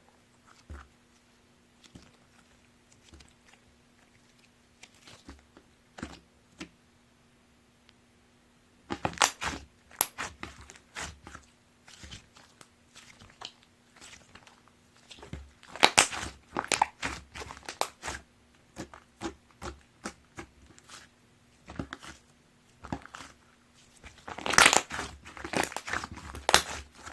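Butter slime being handled: sticky crackling and popping clicks as it is pressed and stretched, dense in three spells about 9, 16 and 25 seconds in, with scattered soft clicks between.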